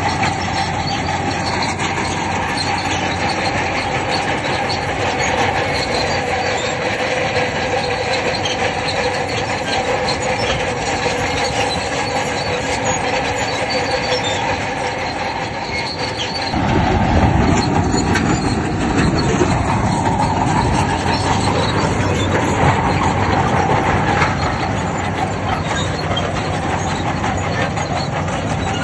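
Crawler bulldozer working, its diesel engine running under the squeal and clank of its steel tracks. About two-thirds of the way through, the sound turns suddenly louder and deeper.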